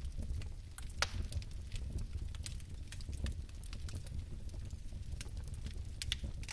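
Fire burning in a fireplace: a steady low rumble of flame with scattered sharp crackles and pops, a louder pop about a second in and another near the end.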